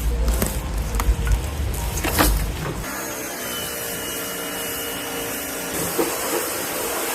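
Workshop tool noise during car bodywork: a low rumble with a few sharp knocks, then, about three seconds in, the steady whine of a motor-driven tool.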